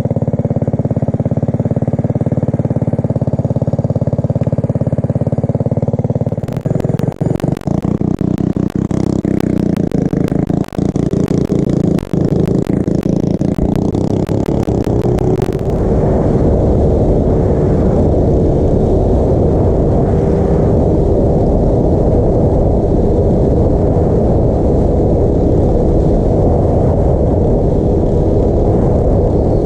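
Small motorbike engine running steadily, then about six seconds in a run of rapid clattering knocks lasting some nine seconds, after which the engine runs on under way, louder and rougher with a steady drone.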